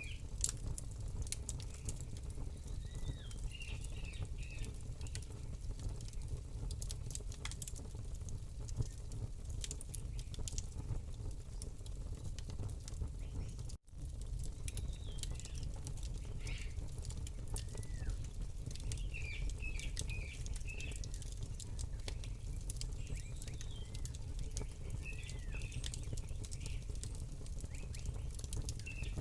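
Campfire crackling with scattered sharp pops over a low steady rumble, while small birds chirp now and then. The sound cuts out for an instant about halfway through.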